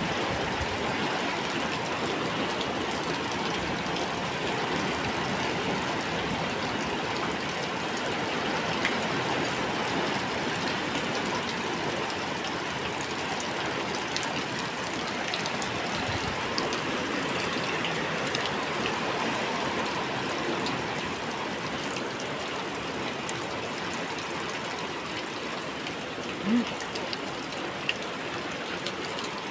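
Heavy rain pouring down steadily, a dense even hiss of water with scattered drops, and one brief louder sound near the end.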